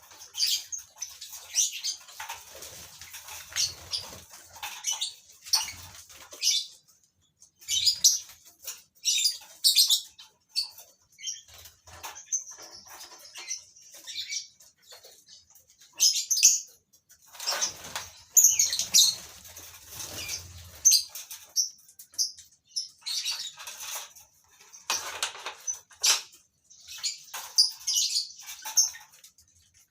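Colony of lovebirds calling in irregular bunches of short, high-pitched chirps, with wing flapping among them.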